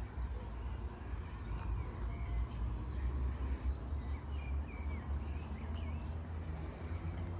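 Small songbirds chirping in short, scattered calls, a few times, over a steady low rumble.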